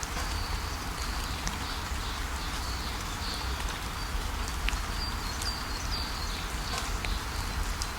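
A waterfall rushing steadily, with birds chirping in short high calls over it.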